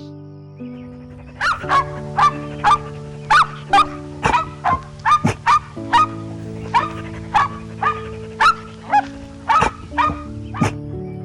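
An animal giving a long run of short, sharp, bark-like calls, about two a second, over background music.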